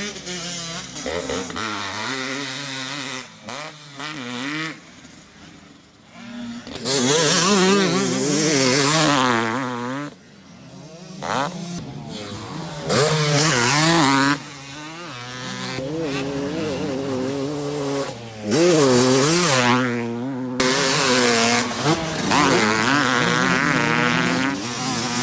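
Two-stroke motocross motorcycle engines revving, the pitch rising and falling over and over with throttle and gear changes, with a few abrupt cuts between clips.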